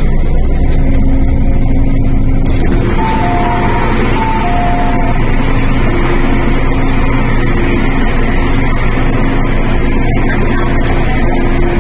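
MTR Tung Chung Line CAF electric train running, heard inside the carriage as a loud, steady rumble with a faint motor hum. About three seconds in, a short two-note chime sounds twice.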